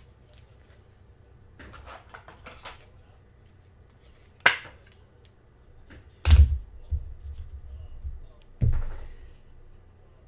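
Trading cards and supplies handled on a table: light rustling, a sharp click a little before halfway, then two dull thumps against the table.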